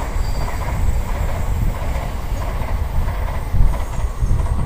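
Shinkansen bullet train running past at speed: a steady rushing rumble of wheels on rail and air.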